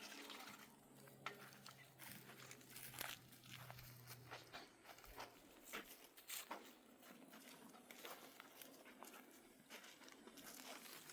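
Near silence, with faint scattered clicks and rustling and a low hum that fades out about four seconds in.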